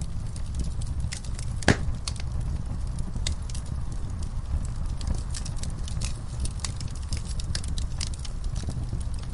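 Wood fire in a fireplace crackling: a steady low rumble of flames with many small irregular snaps and one louder pop just under two seconds in.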